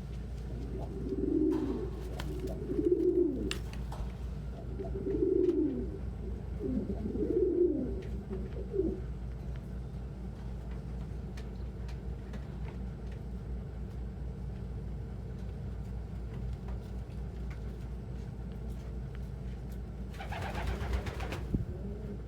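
Domestic pigeon cooing, four low coos in the first eight seconds over a steady low hum. A brief noise follows near the end.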